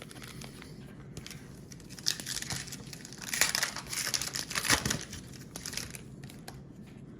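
Plastic trading-card pack wrapper crinkling and rustling as it is handled and opened, loudest in the middle few seconds.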